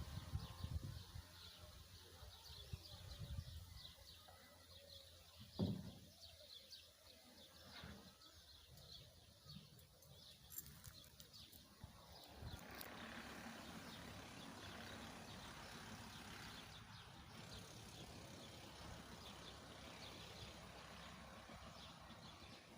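Faint rural ambience with small birds chirping repeatedly. There is a brief low thump about six seconds in, and a steady background hiss rises about halfway through.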